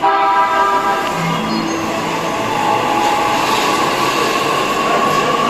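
E655 series electric train pulling out of the platform and running past close by. A chord of steady tones starts abruptly as it begins and lasts about a second, with a few shorter tones after it. The train's running noise then goes on steadily.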